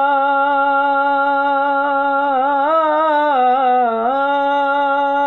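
One voice singing a naat, holding a long drawn-out note with no words: steady at first, then ornamented with quick turns in pitch around the middle, then held steady again.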